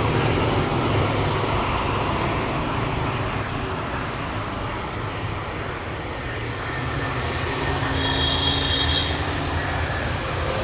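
Steady rumble of passing vehicles, with a brief high-pitched tone about eight seconds in.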